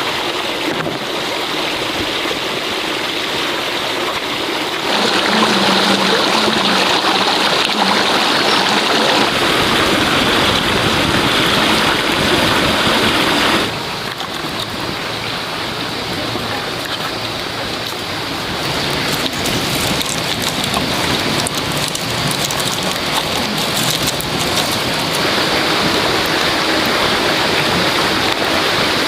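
Steady rushing and splashing of running water. It gets louder about five seconds in and drops back suddenly near the middle.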